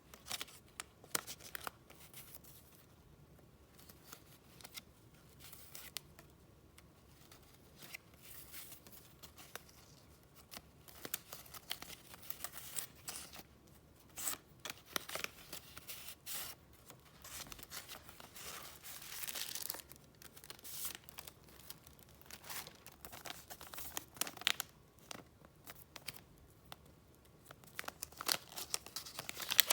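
Paper and packaging being handled: irregular crinkling and rustling with short scrapes and clicks, and a few longer rustles in the middle and near the end.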